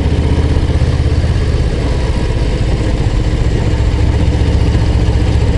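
Harley-Davidson Low Rider ST's V-twin engine running steadily under way, heard from the rider's seat with the exhaust note dominant and wind and road noise behind it.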